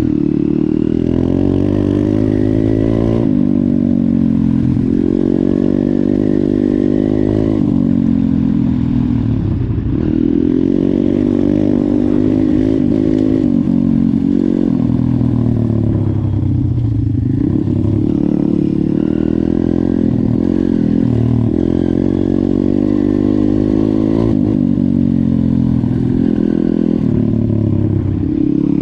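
YCF 150 pit bike's single-cylinder four-stroke engine under hard riding, revving up and dropping back again and again, its pitch climbing then falling every few seconds as the throttle is opened and shut.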